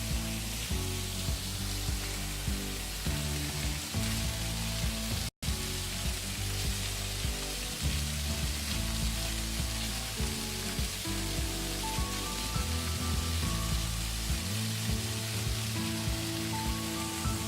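Steady rushing hiss of a waterfall and creek, mixed with background music of slow, held bass notes and chords. The sound cuts out for an instant about five seconds in.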